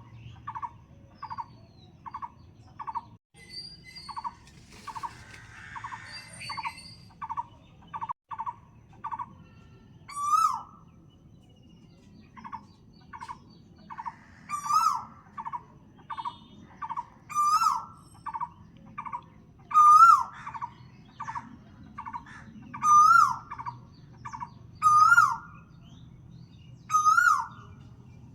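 Birds calling: one repeats a short note about twice a second, and from about ten seconds in a louder, harsher call with a wavering pitch joins every two to three seconds.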